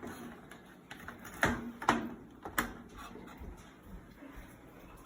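A few short sharp plastic clicks and knocks, the clearest three close together around the middle, as a wiring connector is worked loose from a washing machine's control panel.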